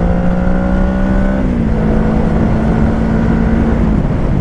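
Kawasaki Ninja 650's parallel-twin engine through a Shark SRC-4 full exhaust, pulling under acceleration with its pitch rising. About a second and a half in the pitch changes, then the engine holds a steady note until near the end, over a constant low rush of wind.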